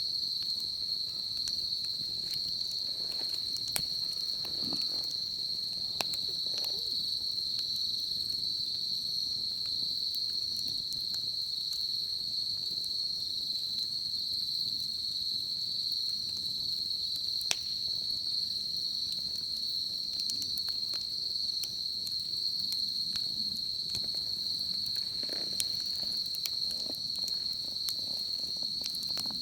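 Insects chirring without a break in one high steady tone, with scattered sharp crackles and pops from a wood bonfire.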